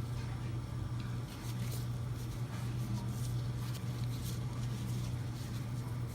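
Steady low room hum, with faint scattered soft clicks and rustles.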